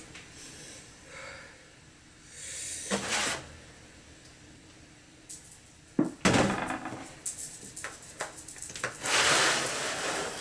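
A man breathing hard through his mouth against the burn of a bitten jalapeño, with a few loud breaths, plus a sharp knock about six seconds in and a run of small clicks, like a drawer or cupboard being opened and things handled.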